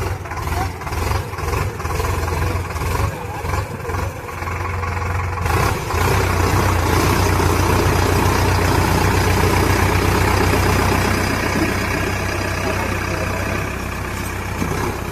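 Sonalika Tiger 4WD tractor's diesel engine running. It pulses unevenly for the first few seconds, then settles into a steady, louder run from about six seconds in.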